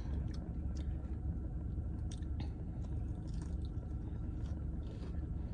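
A person chewing a mouthful of fried chicken, with a few faint clicks, over a steady low hum.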